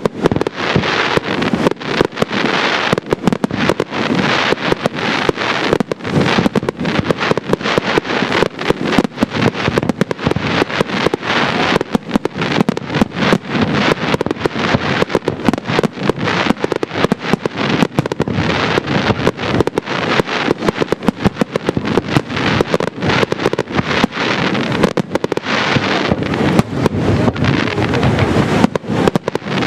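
Professional fireworks display of aerial shells up to 6-inch, firing a continuous barrage: launches and shell bursts overlap in several sharp bangs a second with crackle between, without a pause.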